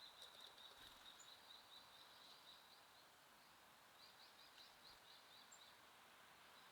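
Faint high twittering of small songbirds: quick runs of short chirps, a pause of about a second near the middle, then another run, over a soft outdoor hiss.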